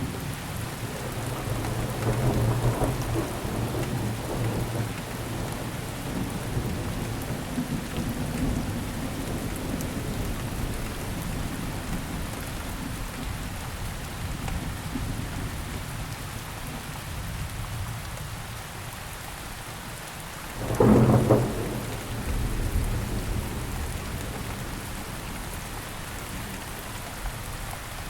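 Steady rain falling, with thunder: a low rumble swells a couple of seconds in, and about 21 seconds in a sudden loud thunderclap cracks and rolls off into rumbling.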